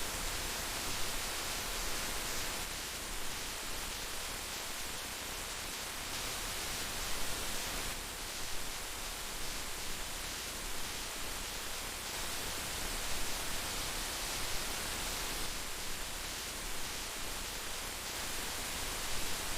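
Heavy rain falling steadily, an even hiss with small louder spatters now and then.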